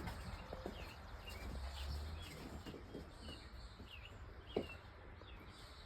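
Small birds chirping, faint, in quick short notes repeated throughout, with a single sharp click about four and a half seconds in.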